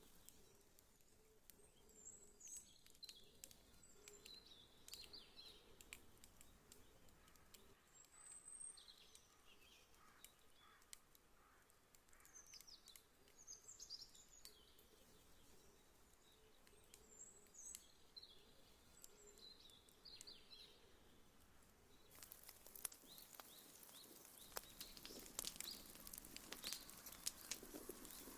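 Faint wood fire crackling with scattered small pops, under birds chirping now and then. About two-thirds of the way in, the crackling grows louder, with denser, sharper pops.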